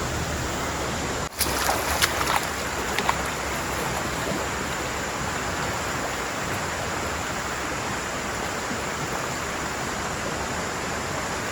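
Steady rush of water from the flooded river and rain, with a brief break about a second in, then a few sharp clicks or knocks over the next two seconds.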